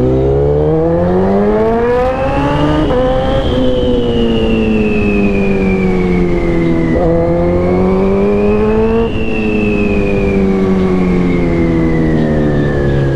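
Sportbike engine under way, the note climbing as it accelerates. It breaks at a gear change about three seconds in and falls away, climbs briefly again, then eases off toward the end, over steady wind rush.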